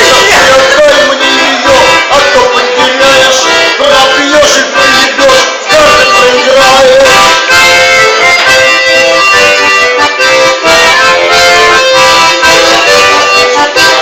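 Accordion music: a melody with many held notes over steady, rhythmic chords in the low end.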